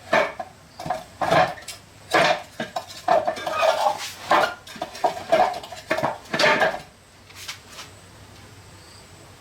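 Hard metal objects knocking and clanking together, about a dozen ringing strikes in irregular succession, stopping about seven seconds in.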